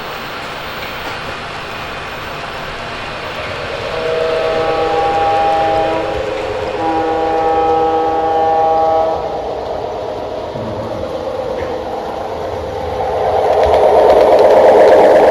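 Train horn sounding two long blasts of a multi-note chord over a steady running rumble. Near the end a louder rushing, rattling noise swells up.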